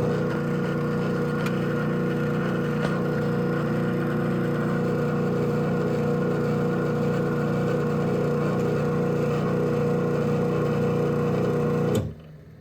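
Craftsman 1/2 hp garage door opener (model 139.53930DM) running steadily as it raises the door: an even motor hum with a steady whine. It stops suddenly about twelve seconds in.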